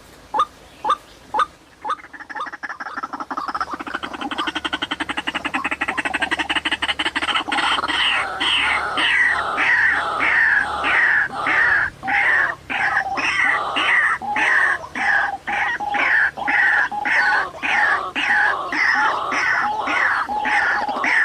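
White-breasted waterhen (ruak-ruak) calling: a few evenly spaced single notes, then a fast rattle that builds up, then loud repeated croaking calls, two or three a second, sliding down in pitch.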